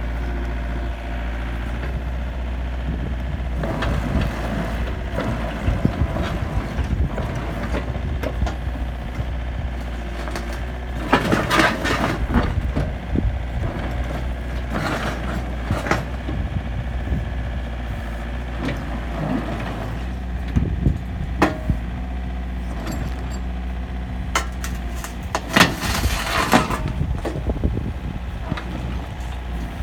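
Komatsu PC50UU-2 mini excavator's diesel engine running steadily, with several louder bursts of clatter and noise from the working machine, the biggest about a third of the way in and near the end.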